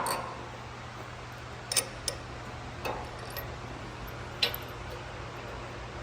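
Scattered sharp metallic clicks and clinks of bolts and steel mower parts being handled, about five in all, over a steady low hum.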